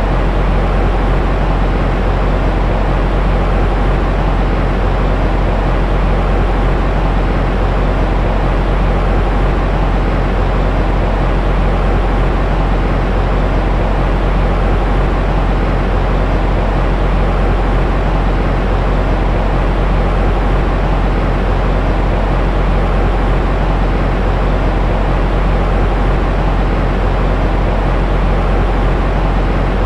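Steady baby-sleep white noise, deep and rumbling with little hiss, constant with no changes.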